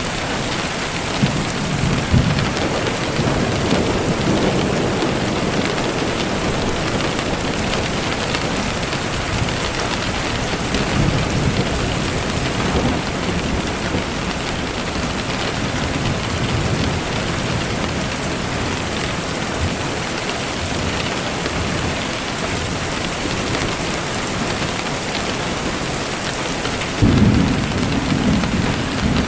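Steady rain falling, with low rumbles of thunder rising and fading under it; a louder rumble sets in suddenly near the end.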